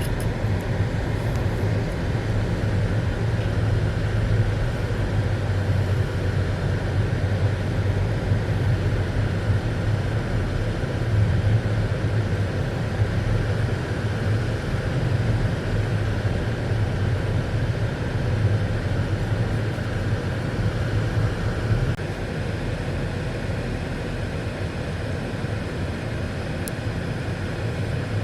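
A car driving at a steady pace: an even hum of engine and road noise, a little quieter from about 22 seconds in.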